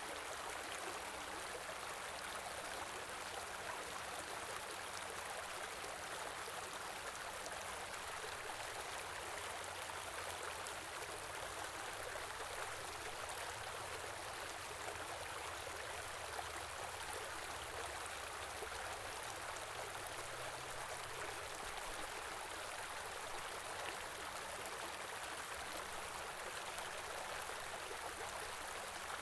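A stream's water flowing with a steady, even rush.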